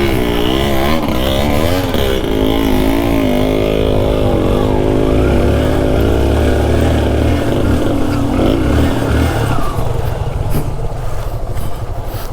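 Yamaha RX two-stroke single-cylinder motorcycle engine revving up and down under changing throttle, easing off near the end.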